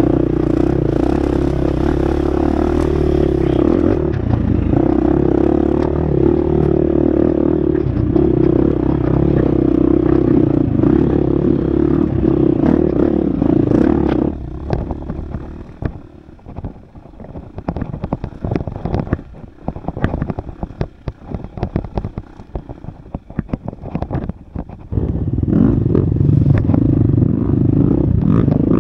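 Husqvarna FX 350 four-stroke single-cylinder dirt bike engine running steadily under throttle on a trail. About halfway through the engine drops off, leaving rattling, clattering knocks of the bike over rough ground. It comes back on strongly near the end.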